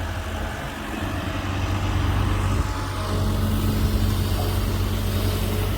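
Heavy diesel engine running steadily with a low drone, rising a little about a second in.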